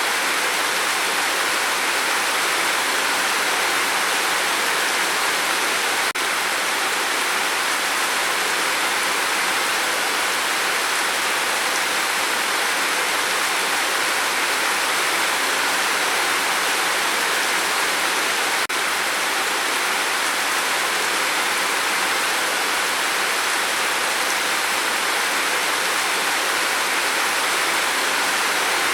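Steady rain falling, an even hiss with no single drops standing out. Two faint clicks come about six seconds in and again at about nineteen seconds.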